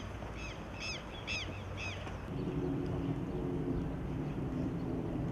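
A bird calling repeatedly with short arched chirps over outdoor background noise, stopping about two seconds in; after that a steady low hum sets in.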